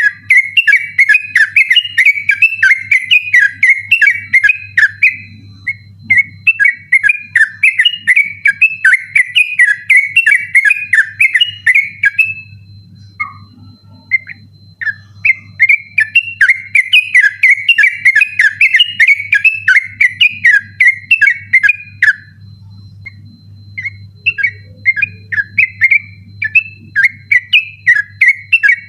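Yellow-vented bulbul (trucukan) singing a fast, insistent run of quick chirping whistled notes, several a second, in long unbroken strings with two short pauses, one midway and one near the end. A faint steady hum lies underneath.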